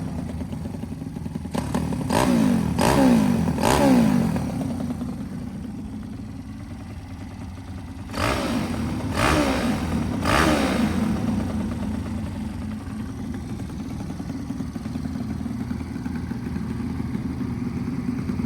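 Honda Chaly's small four-stroke single idling through a one-off steel exhaust, blipped four times in quick succession near the start and three more times a few seconds later, then settling back to a steady idle.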